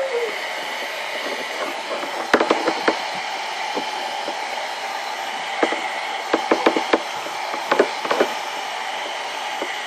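Hand-held hair dryer running steadily on its lower speed setting, with scattered clicks and knocks from handling.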